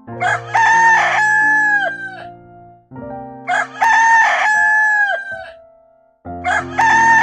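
Rooster crowing cock-a-doodle-doo three times, about three seconds apart, the same crow repeated each time; the third runs on past the end.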